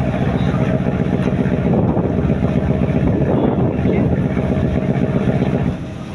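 Fishing boat's diesel engine running steadily, dipping slightly in loudness just before the end.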